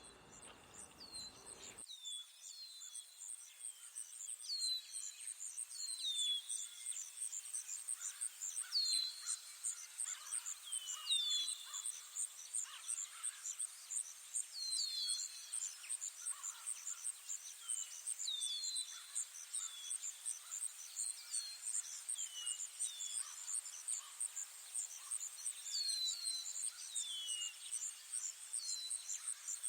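An insect trilling steadily in rapid, high-pitched pulses, with short falling bird chirps repeating every second or so.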